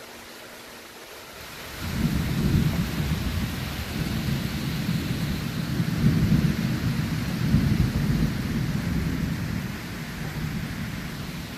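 Steady rain hiss, then about two seconds in a long roll of thunder breaks in suddenly, rumbling loud for several seconds before slowly fading.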